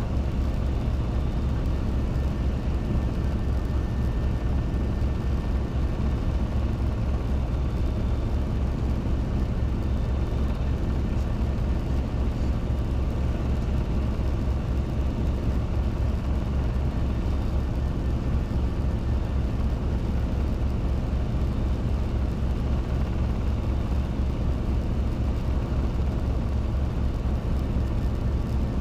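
Robinson R22 helicopter in flight: its four-cylinder Lycoming piston engine and two-blade rotor running steadily, a constant low, pulsing drone.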